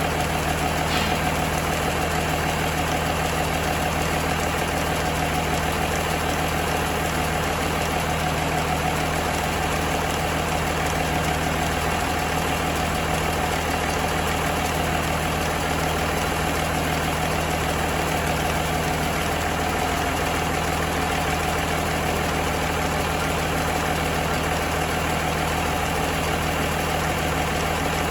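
John Deere 6-531T turbocharged six-cylinder diesel engine idling steadily at an even speed.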